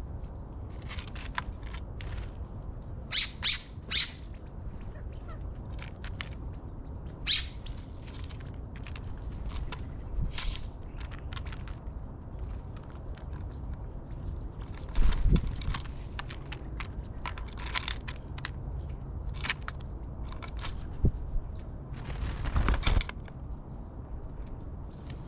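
Small birds feeding at a seed feeder: irregular sharp taps, rustles and wing flutters in quick clusters, the loudest about three seconds in, near the middle and near the end.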